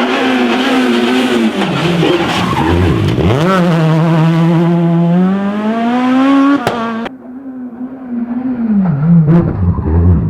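Rally car engine revving hard, its pitch dropping as the throttle lifts, then climbing steadily through a long pull for about three seconds. About seven seconds in the sound suddenly falls quieter, and a car is heard lifting off and accelerating again near the end.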